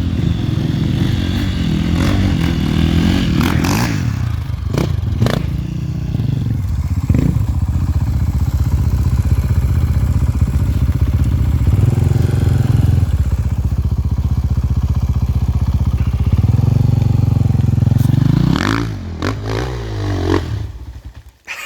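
Enduro motorcycle engine running loud and close, pulling under throttle with shifts in pitch. Near the end it eases off, the pitch falling and then rising again, before the sound cuts off suddenly.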